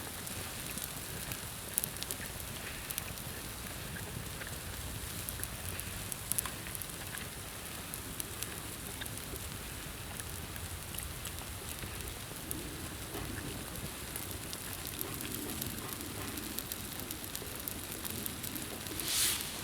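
Wood campfire crackling, with scattered sharp pops and snaps over a steady hiss, and one louder rushing flare of hiss about a second before the end.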